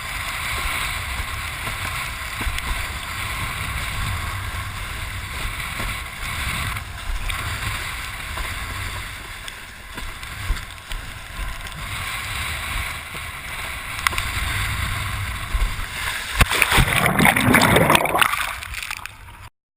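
Wind buffeting the microphone and water rushing past a windsurf board under sail. The sound is a steady rushing noise that swells louder near the end, then cuts off suddenly.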